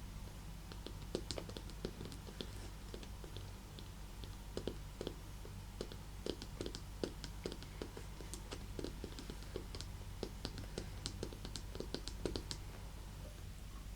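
Fingernails tapping and scratching on a leather handbag: a quick, irregular run of light clicks and taps.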